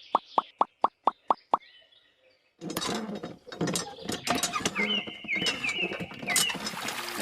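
A quick even run of plops, about four a second, stops about a second and a half in. After a short near-quiet gap, a busy clatter of clicks begins, with a few short repeated chirps.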